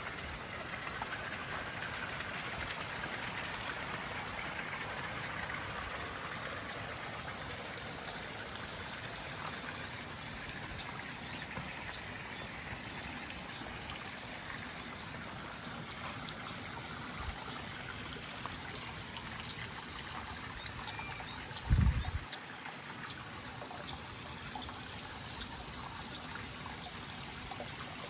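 Water trickling and running steadily, like a small stream. A single short, low thump about three-quarters of the way through is the loudest sound.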